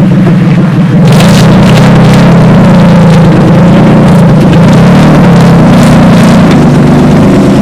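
Car engine and exhaust running very loud close by, with a steady low drone that gets louder and noisier about a second in as the engine is given more throttle.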